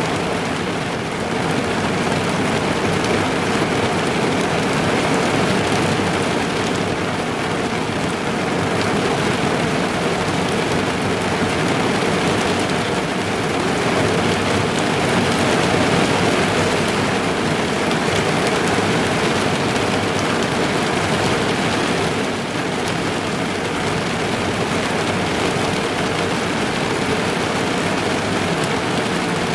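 Rain falling on a car's roof and windows, heard from inside the car: a dense, steady patter of drops that swells and eases slightly.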